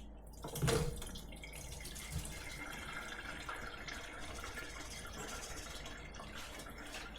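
Browned ground beef and onions draining, their grease and juices trickling and dripping steadily through a strainer. A short knock of the pot or strainer about a second in.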